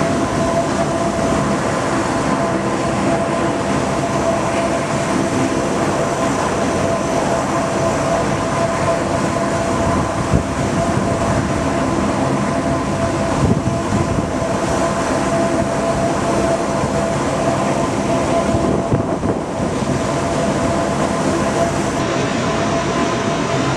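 MV-22B Osprey tiltrotor's engines and proprotors running steadily: a loud, dense rumble with a steady high whine.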